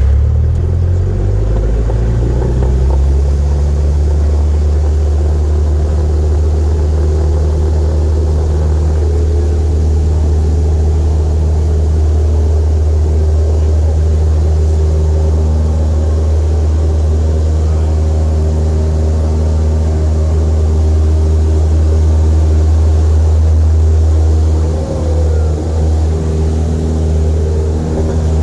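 A small propeller airplane's piston engine drones loudly and steadily, rising in pitch over the first few seconds as the power comes up, then holding an even note.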